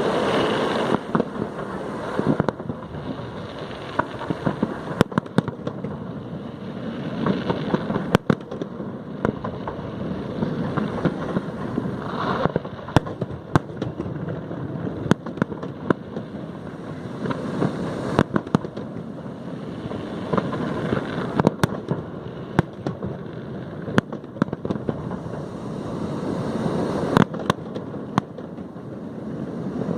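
Fireworks display: sharp bangs every second or two over a continuous rumble of bursts.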